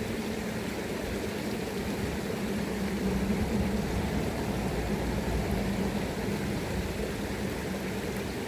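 River current rushing steadily, with wind gusting on the microphone as an uneven low rumble.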